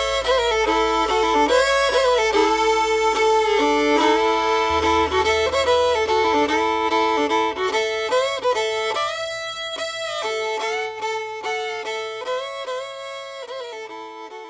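Background music: a fiddle playing the melody over a steady low note, fading out over the last few seconds.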